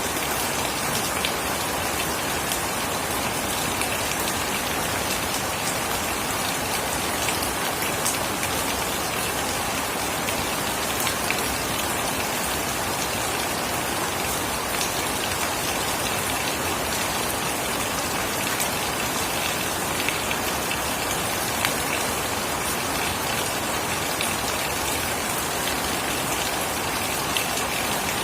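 Steady heavy rain falling, with the patter of individual drops striking a surface close by.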